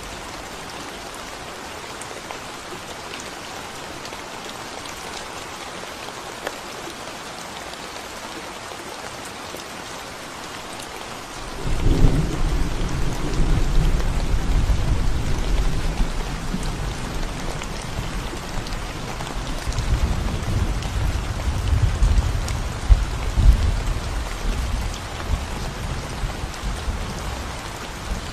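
Steady rain falling on a concrete road. About halfway through, a long rumble of thunder starts suddenly, swells again later and fades away near the end.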